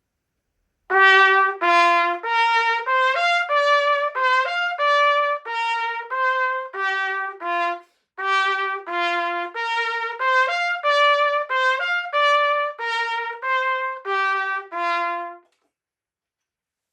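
C trumpet playing a short melodic phrase of separately tongued notes, then playing the same phrase again after a brief break.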